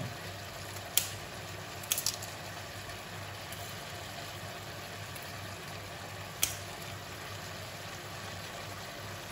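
Beef and broccoli stir-fry sizzling steadily in a wok. A few sharp snips of kitchen scissors cut dried chilies into the pan: one about a second in, two close together around two seconds, and one more past the middle.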